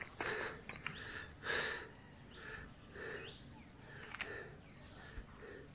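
Birds chirping, faint short calls repeating every half second or so.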